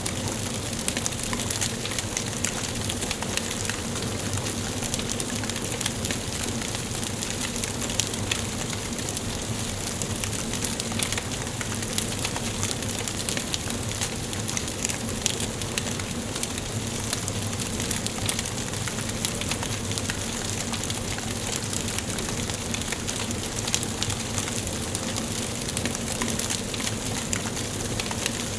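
Wood fire burning in a fireplace, with a steady hiss and frequent small crackles and pops.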